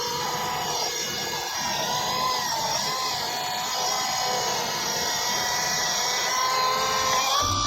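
Logosol E5 electric saw unit on an M8 chainsaw mill cutting through a log: a steady high whine from the motor and chain, its pitch wavering slightly with the load.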